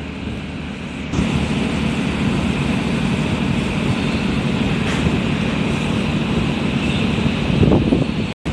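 Ro-ro ferry's engines running in a steady low drone as the ship berths, growing louder about a second in. The sound breaks off abruptly just before the end.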